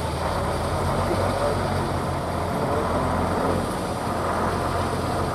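Truck engine running steadily at a low pitch, with voices faint underneath.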